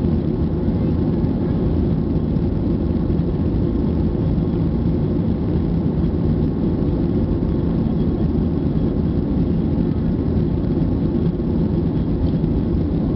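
Jet engines of a Boeing airliner at take-off power, a loud, steady low rumble.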